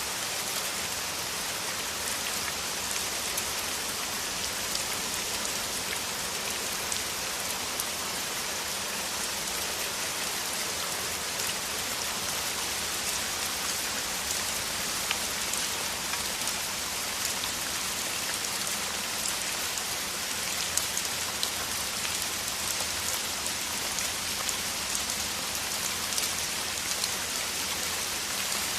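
Heavy rain falling steadily, a dense even hiss with many small drop impacts scattered through it.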